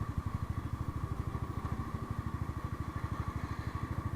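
Motorcycle engine running steadily at low revs, a fast, even pulsing beat, heard through an action camera's built-in microphone.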